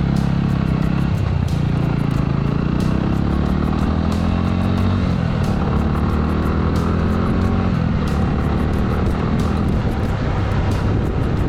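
Suzuki Grasstracker's single-cylinder engine running under way on the road, its pitch shifting a few times with the throttle, over road and wind noise.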